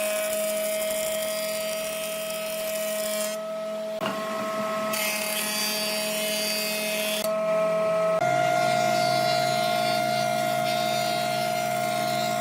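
Electric woodworking machine running with a steady whine. The sound shifts abruptly a few times and is a little louder and higher for the last few seconds.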